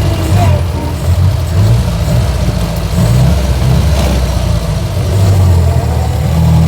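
1924 Austin Seven's small four-cylinder side-valve engine running at low speed, heard from inside the open-bodied car, with the engine note rising and falling a few times.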